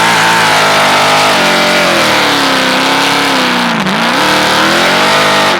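A car engine held at high revs, its pitch wandering, sagging slowly, dipping briefly and climbing again, before it cuts off suddenly near the end.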